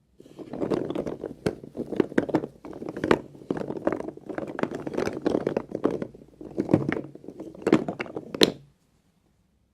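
Knife cutting through a bar of soap: a steady crunchy crackling and scraping, broken by many sharp snaps, that stops near the end.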